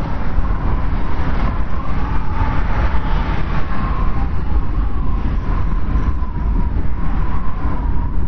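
Blizzard wind blowing steadily, with a deep rumble underneath and a thin whistle that wavers up and down in pitch.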